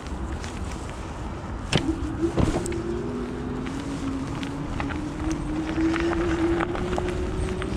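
An eBike's electric motor whines steadily while the bike is ridden, its pitch rising slowly over several seconds. Tyre and road noise runs underneath, with a few scattered clicks.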